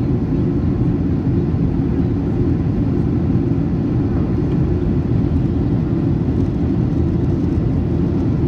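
Steady low rumble of engine and airflow noise inside the cabin of a Boeing 737-800 on its descent, even and unchanging.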